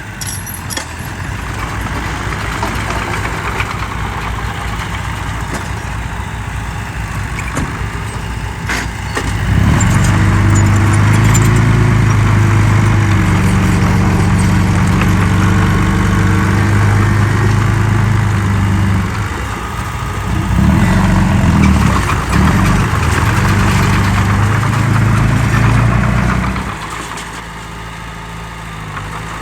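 Heavy diesel engine of an earthmoving machine running. About a third of the way in it rises to a loud, steady engine note, which dips briefly past the middle and drops back to a quieter running near the end.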